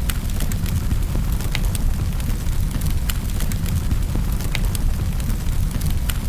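Wood fire burning in a fireplace: a steady low roar of flames, with frequent sharp crackles and pops at irregular intervals.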